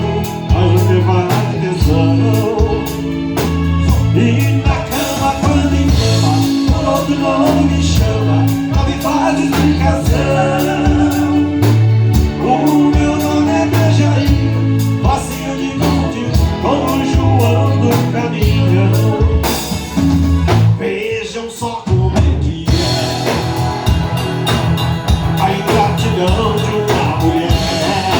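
Live band playing an instrumental stretch of a song: drum kit, a pulsing bass line and a melody instrument. The music thins out briefly about 20 seconds in, then the full band comes back.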